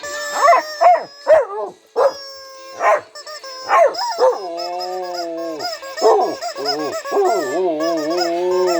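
Dogs howling: a run of short yipping howls, then about four seconds in one long, slightly wavering howl.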